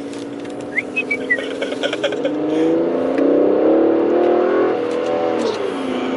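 Aston Martin DB11's twin-turbo V12 heard from inside the cabin, its note rising and growing louder as the car accelerates midway through, then holding and dropping back near the end.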